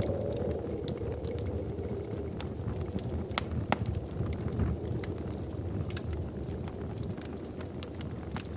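Wood fire crackling in a fireplace: irregular sharp pops and snaps, two louder ones a little past three seconds in, over a steady low rush of burning.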